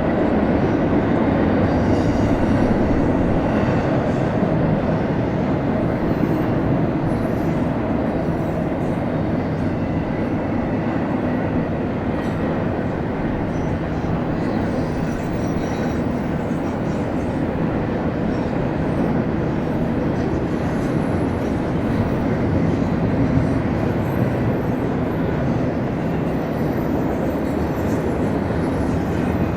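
Freight train rolling past at close range: a steady rumble of railcars on the rails, with a faint high wheel squeal near the end.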